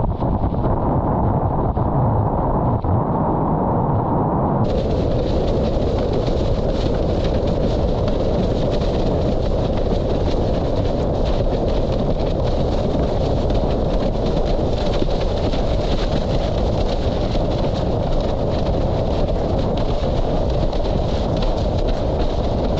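Heavy wind noise buffeting the microphone, mixed with rushing water, from a camera riding along while windsurfing at speed. The sound turns brighter and hissier about five seconds in.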